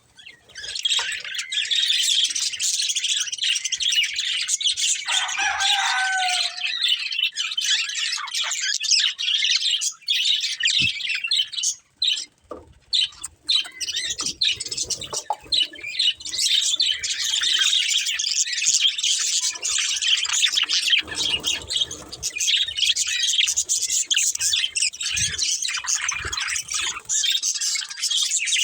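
A pair of budgerigars chirping and warbling in a dense, continuous chatter, with a short lull about twelve seconds in.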